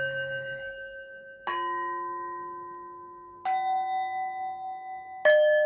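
Meditation background music of struck bell tones: three strikes about two seconds apart, each at a different pitch, each ringing on and slowly fading into the next.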